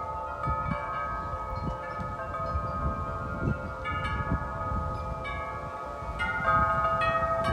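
Several wind chimes ringing continuously as strong wind swings them, with many overlapping notes struck again and again and a louder cluster of strikes near the end. Wind rumbles on the microphone underneath.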